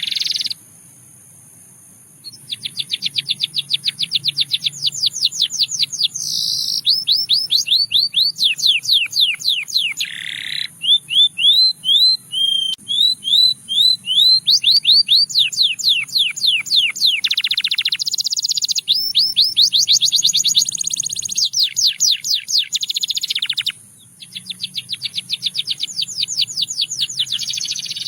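Canary singing, billed as a Russian singing canary: long rolling trills of rapid repeated notes, the pace and pitch of the tours changing every few seconds, with short pauses about half a second in and near the end.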